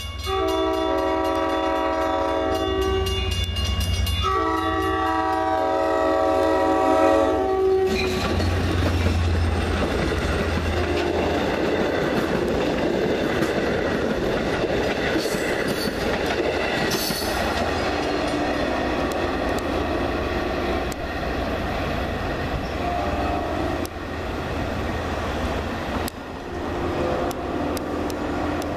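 A train's multi-chime air horn sounds two long blasts, a chord of several tones, as it approaches. Then the train passes close by, its wheels rumbling and clicking over the rail joints.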